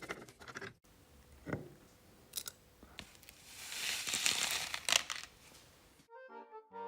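Workshop hand-work noises: scattered clicks and knocks, and a longer noisy scrape about four seconds in. Music comes in about six seconds in.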